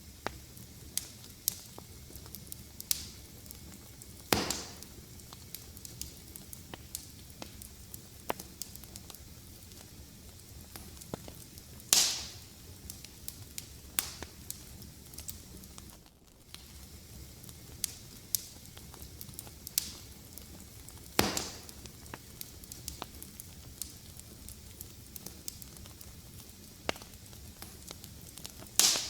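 Wood fire crackling in a fireplace: a steady low hiss with frequent small snaps, and four louder pops spread through.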